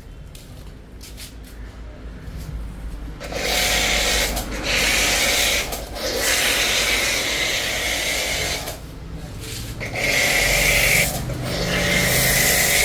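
Kapicon electric pressure washer spraying in several bursts, its pump motor and spray starting and stopping together with short pauses between, after a low hum for the first three seconds.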